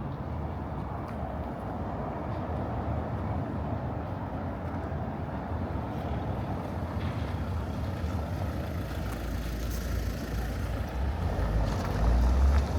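Steady outdoor street ambience, with a low rumble that swells near the end.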